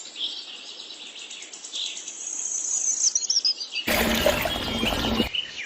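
Small birds chirping and twittering, with short high whistles over a faint hiss. About four seconds in, a loud rushing noise comes in for just over a second.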